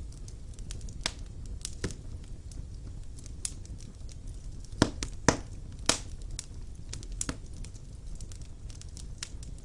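Wood fire burning in a stone fireplace: a low steady rumble of flames with irregular crackles and sharp pops, the loudest three pops coming close together about five to six seconds in.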